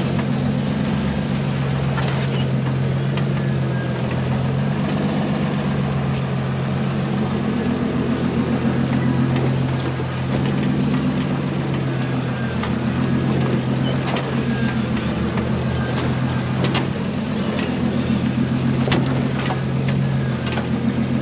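Engine of an off-road recovery vehicle running steadily while it drives a rough dirt trail, with scattered knocks and rattles over the bumps.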